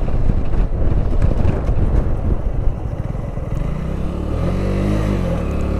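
Keeway Superlight 125 motorcycle under way, with wind rushing over the microphone. About three seconds in the wind dies down and the engine's note comes through, dipping in pitch and rising again near the end.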